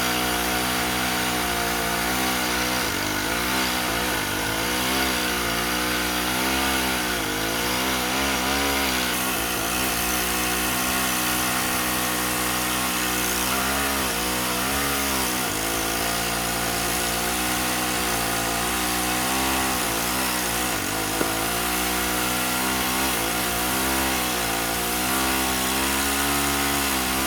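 An engine running, its speed rising and falling again and again, as under a varying load. It is most likely tree-work machinery.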